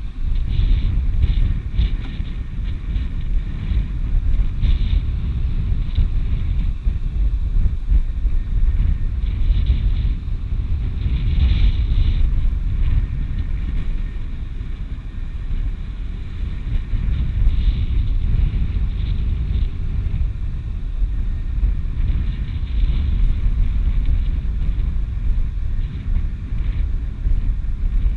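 Wind buffeting the microphone, a steady gusting rumble from slope wind.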